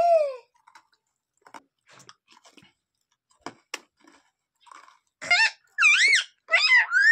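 A pet parrot gives a short falling call, then a few seconds of faint scattered clicks and crunches, as of beak chewing. About five seconds in, a run of loud squawking calls that bend up and down in pitch.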